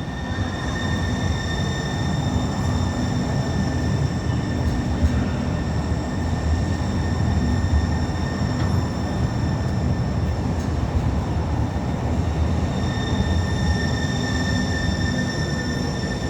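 Link light rail train running steadily: a continuous rumble with a constant high-pitched whine on top.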